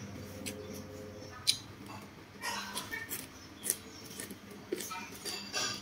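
Close-up chewing of crunchy raw long beans: wet mouth sounds with a handful of sharp crunches and clicks at uneven intervals.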